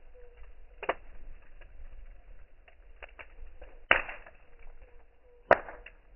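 Campfire crackling: three sharp pops of burning wood about one, four and five and a half seconds in, with faint ticking between them.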